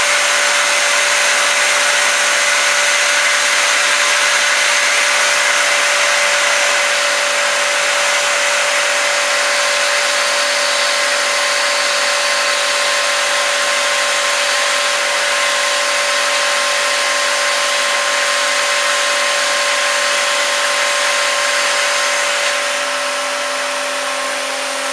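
Vacuum cleaner motor running steadily with a whine, sucking air through a homemade cardboard rotary vacuum motor; it is switched off abruptly at the end.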